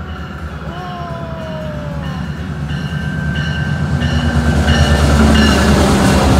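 Metrolink diesel locomotive and double-deck commuter train pulling into the station. The engine rumble and wheel noise grow steadily louder as it draws alongside, with the locomotive bell ringing about three times a second.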